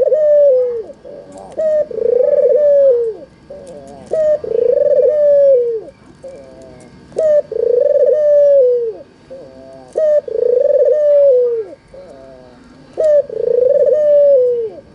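White, red-eyed Barbary dove (puter) cooing: about six drawn-out coos at a steady pace, each a short note and then a long one that falls away at its end. Faint high chirps of small birds sound behind.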